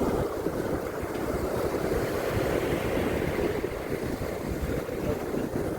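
Sea surf washing steadily on a beach, with wind rumbling on the microphone.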